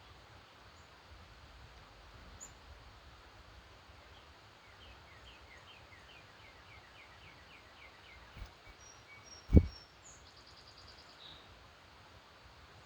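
Wild birds singing: one bird repeats a short falling note over and over, about three times a second, for around five seconds, with a few high chips and a quick trill from others near the end. A single sharp thump about two thirds of the way through is the loudest sound.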